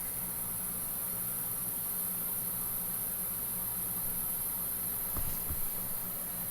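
Tecumseh AJM reciprocating compressor of a 1965 Fedders Weather Wheel 115 V air conditioner running steadily: a low even hum under a high hiss. Two brief knocks come about five seconds in.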